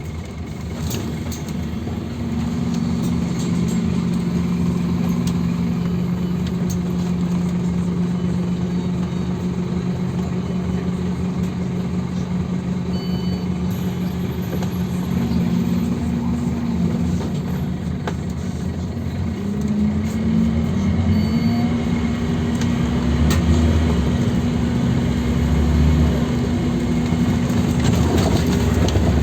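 Scania OmniLink CK270UB city bus engine running, with a steady low drone whose pitch shifts a few times as engine speed changes, along with scattered small clicks and rattles.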